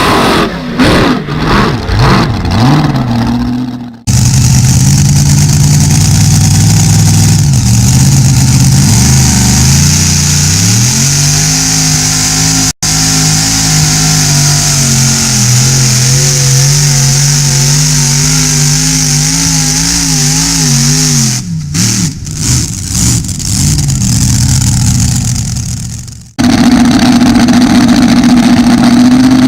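Pulling tractor's engine running hard under load, its pitch rising and falling, with abrupt breaks in the sound a few times.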